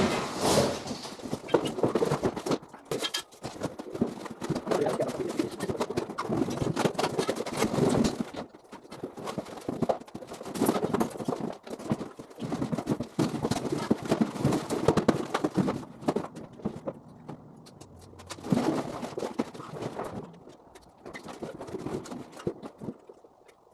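Irregular clattering, knocking and scraping of junk being handled and loaded, in bursts with short lulls, growing quieter near the end.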